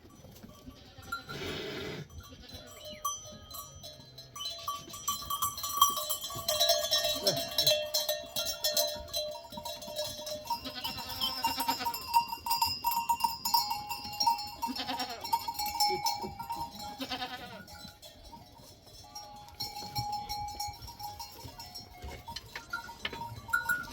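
Bells on a moving herd of goats and sheep, clanking and ringing in many overlapping tones, loudest through the middle.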